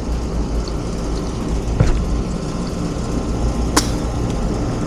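Rooftop commercial HVAC units running with a steady low hum, with two sharp clicks, one about two seconds in and one near four seconds.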